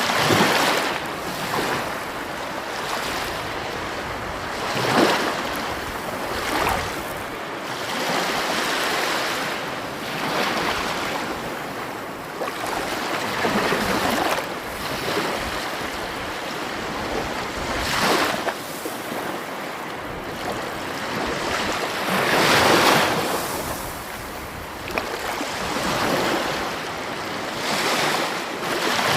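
Sea waves breaking and washing on the shore: a constant hiss of surf that swells with a louder wave every few seconds.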